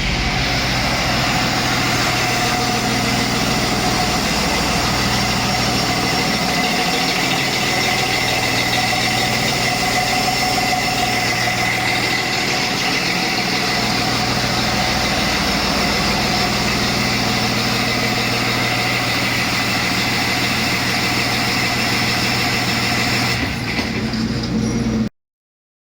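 A 2009 Cummins ISB 6.7L inline-six turbo diesel running steadily at idle, until the sound cuts off suddenly near the end.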